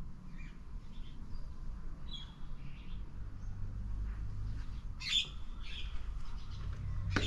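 Birds calling in short, scattered chirps, with a louder call about five seconds in, over a low rumble.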